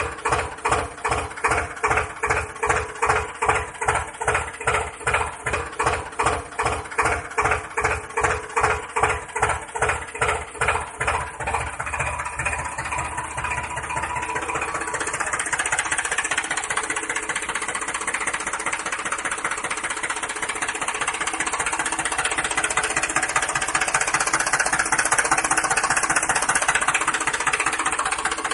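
Small motor of a homemade model tractor running, with an even thumping about three times a second for the first twelve seconds, then a steady buzz.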